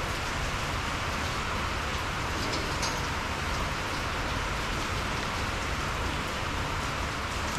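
Steady hiss of rain falling on the shed roof, with a few faint ticks about three seconds in.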